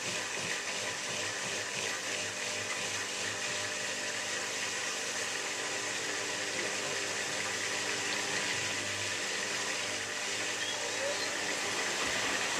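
Miele W3744 washing machine's drain pump running steadily as water drains and sloshes through the machine, with a low motor hum, during what the owners call a water lock and a bit of a suds lock.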